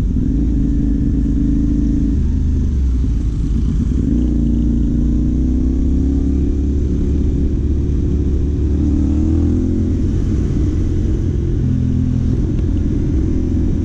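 CFMOTO 450 motorcycle's parallel-twin engine running through a Yoshimura AT2 replica slip-on exhaust at low road speed. The note holds steady, with small throttle rises and falls in pitch a few seconds in and again about two-thirds of the way through.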